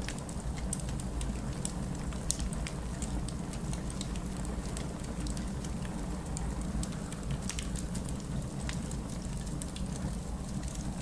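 Wood fire crackling in a fireplace: scattered sharp pops and ticks over a steady low rumble, with one louder pop about two seconds in.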